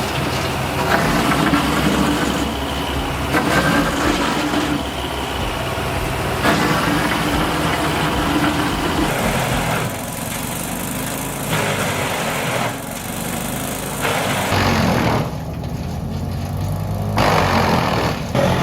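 Wood chipper engines running and chipping, loud and steady, the sound changing abruptly every one to three seconds.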